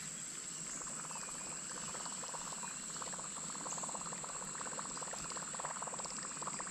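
Steady chorus of late-summer insects: a continuous high-pitched buzz with a fast, even pulsing trill beneath it.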